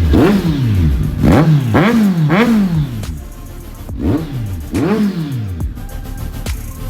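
Superbike engine blipped at the throttle about six times, each rev rising sharply and dropping back to idle. There are four blips in quick succession, a short pause at idle, then two more before it settles to a steady idle.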